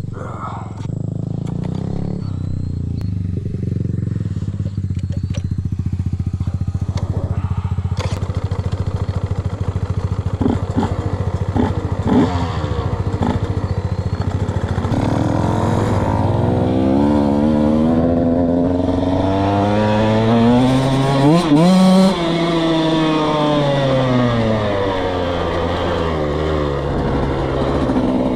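Dirt bike engine running under a rider. It holds fairly steady at first, then revs up to a high peak a little past two-thirds of the way in and drops back down as the throttle eases.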